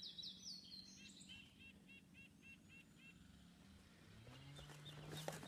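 A songbird singing faintly: a few falling high notes, then a run of about eight short repeated chirps, roughly four a second. Near the end a low steady hum comes up.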